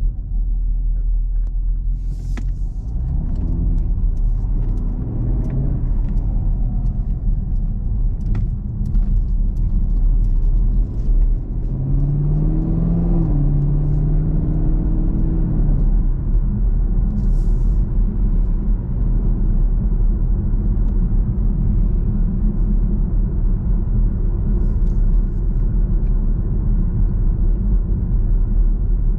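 2021 Camaro 2SS's 6.2-litre V8 running at low speed, a steady deep rumble. About twelve seconds in its pitch rises briefly, holds, then falls back about four seconds later; two short hisses sound near the start and just past the middle.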